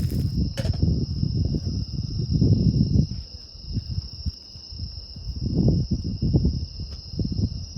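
Insects chirring in a steady, unbroken high drone, over loud irregular low rumbling that rises and falls in surges.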